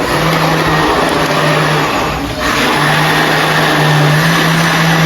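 Electric kitchen blender running steadily, blending the lemon cake mixture, with a brief dip a little over two seconds in.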